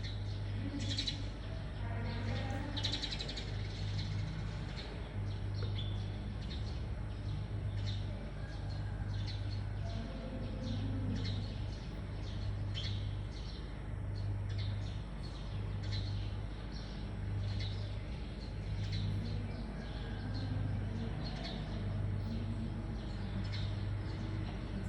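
Birds chirping repeatedly, over a low hum that pulses on and off about once a second.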